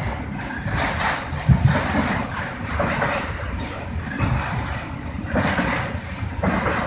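Loaded freight train of autorack cars rolling slowly past on the rails: a steady rumble of steel wheels on track with uneven clunks from the cars, one louder knock about a second and a half in.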